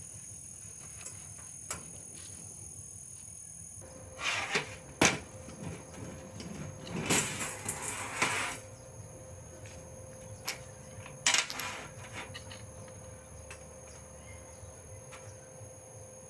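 Scattered knocks and clatters of small hard objects being handled, with a longer scraping rustle in the middle and a faint steady hum that starts about four seconds in.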